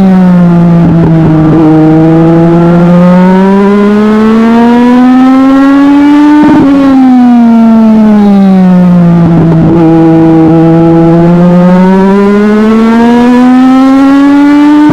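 A Legend race car engine at racing speed. Its pitch drops and holds low, then climbs steadily back up, and this happens twice. That is the throttle lifting for the turns and the engine pulling hard down the straights, lap after lap on a short oval.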